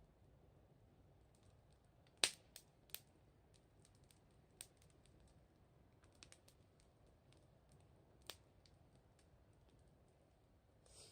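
Wood fire crackling: irregular sharp pops and snaps over a faint background, the loudest about two seconds in.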